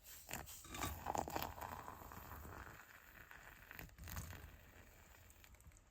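Faint rustling and handling noises with scattered clicks and knocks.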